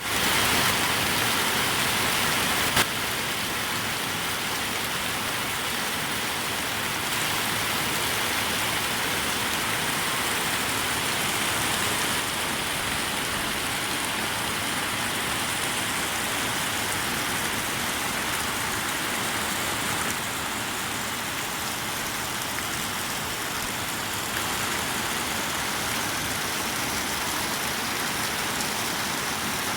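Heavy rain falling, a steady even hiss, with one sharp knock about three seconds in.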